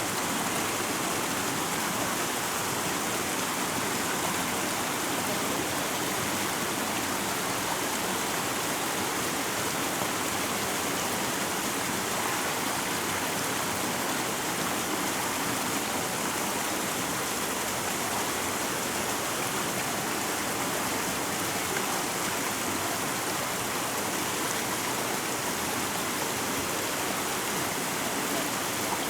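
A rocky river running steadily over stones: an even, unbroken rush of water.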